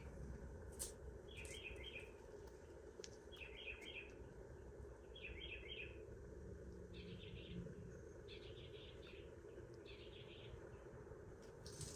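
Faint bird chirping over quiet room tone: short groups of three or four quick high notes, repeated every second or two.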